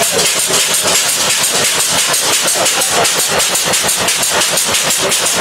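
Train passing close by: a loud, fast, even clatter of about ten strokes a second.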